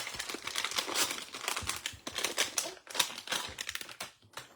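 A trading-card pack's wrapper being torn open and crinkled, a dense crackling that stops about four seconds in.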